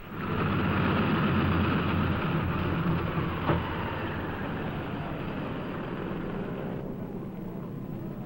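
A vehicle's engine running as a steady rumble, loudest in the first few seconds and then easing off.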